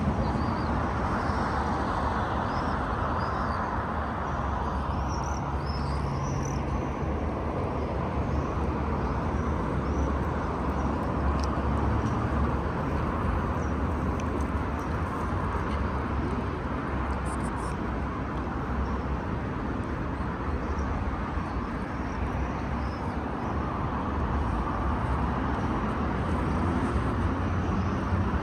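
Steady outdoor street ambience: a constant low traffic hum, with a few short bird chirps in the first several seconds.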